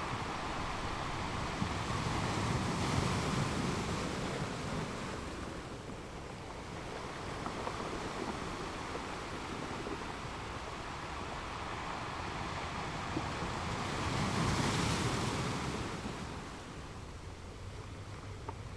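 Ocean waves washing onto a shore: a continuous surf wash that swells as a wave breaks about three seconds in and again near the end, easing off in between.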